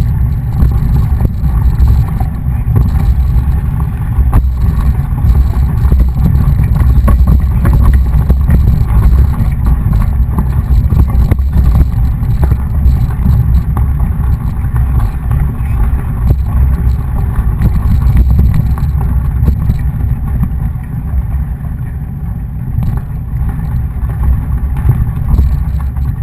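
Steady low rumble of wind buffeting a bike-mounted camera's microphone, with tyre and road noise, while riding a mountain bike.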